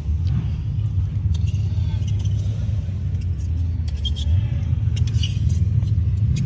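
Wind buffeting the microphone outdoors: a steady, fluctuating low rumble.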